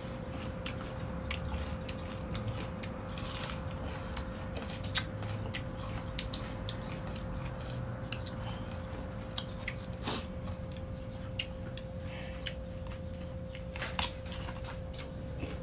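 Close-up chewing of crunchy unripe mango: irregular crisp crunches and mouth clicks, with a steady faint hum underneath.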